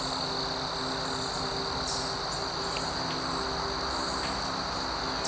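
Steady chorus of insects such as crickets, a continuous high-pitched trilling that holds without a break, with a faint low steady hum underneath.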